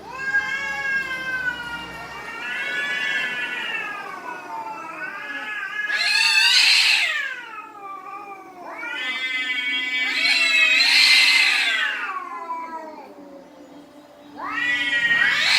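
Domestic cats yowling at each other in long, drawn-out calls that rise and fall in pitch, typical of a cat standoff. There are four long yowls, the loudest about six seconds in and about eleven seconds in.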